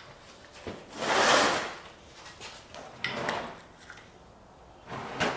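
Hard plastic tool cases being pulled and slid on a storage rack. A loud scraping slide comes about a second in, a shorter one around three seconds, and a sharp click near the end.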